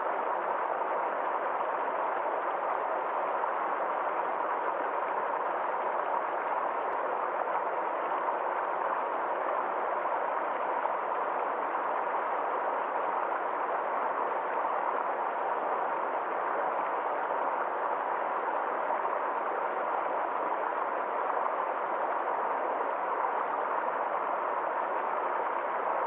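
Small forest stream flowing, a steady, even rush of water.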